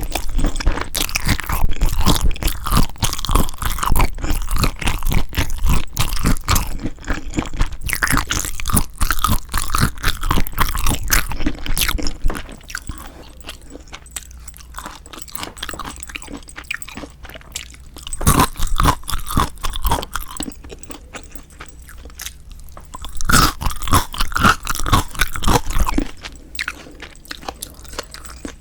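Close-miked eating of spicy marinated raw shrimp: wet crunching and chewing, dense for the first dozen seconds, then quieter, with two more short bouts of chewing later on.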